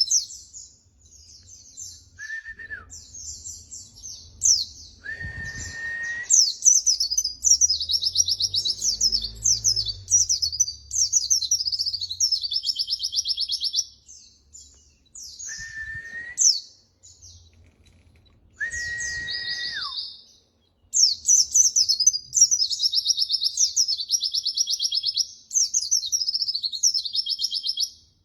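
White-eye (pleci) singing a fast, dense, high twittering song in bursts with short pauses. Four times, a steady, lower whistle is held for about a second and drops slightly at the end.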